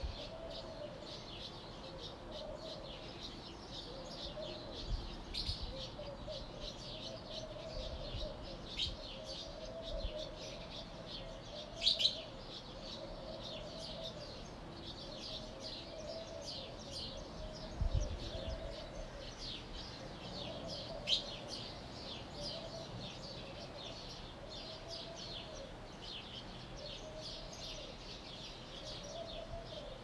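Many small birds chirping and twittering steadily, with a lower call repeating about once a second underneath. One sharp chirp stands out near the middle, and there is a soft low thump a little later.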